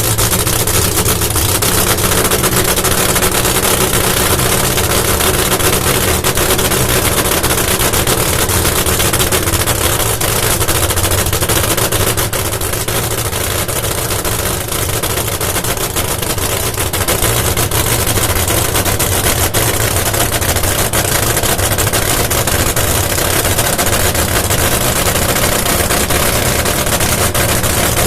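Nitro funny car engine running at idle: a loud, steady, rapid crackling rumble, dipping a little about halfway through.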